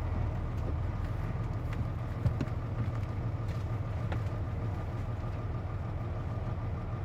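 Inside a Hino KC-JP250NTN city bus: the diesel engine idles with the air conditioning running, the condition that gives this bus its unusual noise. A faint high tone pulses steadily over the low hum, and there is a single knock about two seconds in.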